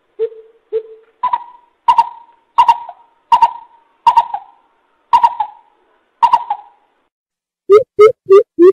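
Coucal (bubut) calling a series of deep hoots. Two low notes come first, then about seven higher hoots spaced out at under two a second. After a short pause, a fast run of low hoots starts near the end, about three a second.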